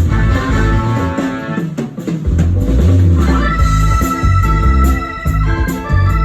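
Instrumental music: an organ-like keyboard melody over bass and a drum kit. The bass drops away briefly about two seconds in before coming back under held keyboard notes.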